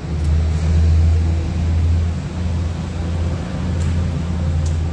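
A steady low machine rumble, swelling and easing slightly, with a few faint light ticks.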